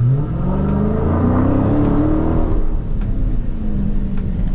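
Dodge Scat Pack's 6.4-litre 392 HEMI V8 accelerating hard, its pitch rising for about two and a half seconds, then falling back and running on at a lower, steadier pitch.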